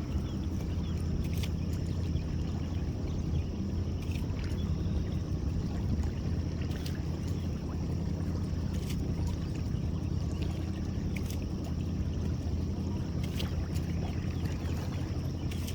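Boat motor running steadily at low speed with a low hum, while water trickles and drips, with light clicks every second or two.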